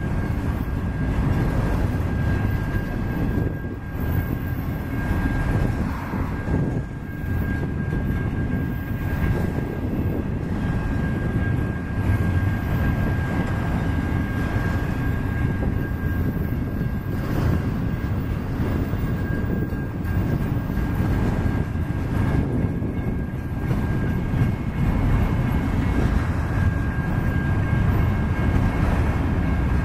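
Autorack freight cars rolling slowly past, a steady rumble of steel wheels on the rails, with a thin, steady high tone above it throughout.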